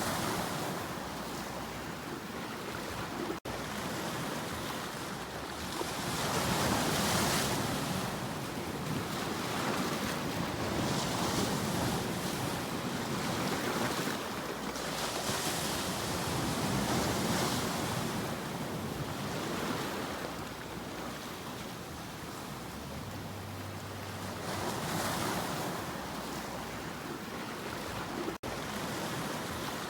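Sea waves breaking and washing in, a continuous surf that swells to a louder wash every few seconds and then eases back.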